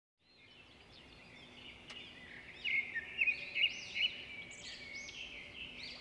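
Songbirds chirping and singing, several calls overlapping, fading in from silence over the first second or two and loudest about halfway through.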